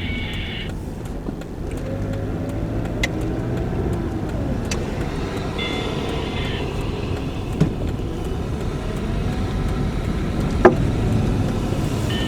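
A car running, with a steady low rumble and slowly rising and falling engine tones. There are two brief high tones, near the start and about six seconds in, and a few sharp clicks.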